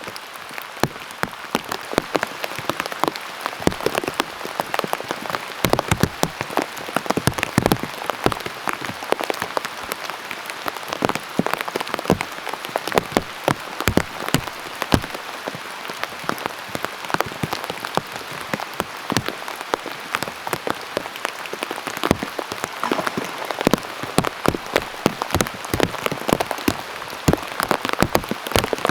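Heavy autumn rain pouring down, with a dense, irregular patter of loud individual drops striking a surface close by.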